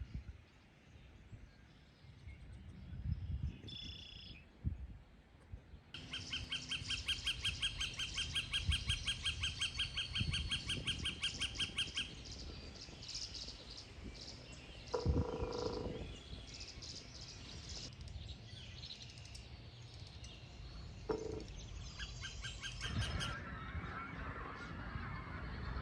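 Wild birds calling: a rapid, even trill lasting about six seconds, then a single low honk about fifteen seconds in, a short call a few seconds later, and more calls near the end.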